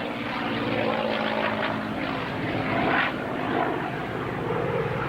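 P-51 Mustang's Merlin V12 engine droning in flight during an aerobatic display, its note sinking slowly in pitch.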